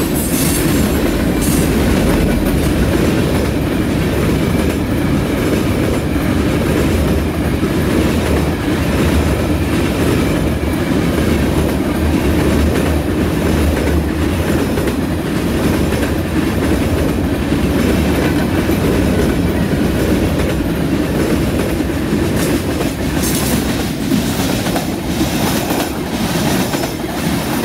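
Freight train cars (hoppers, gondolas and tank cars) rolling past close by: a steady loud rumble with the clickety-clack of steel wheels over the rail joints.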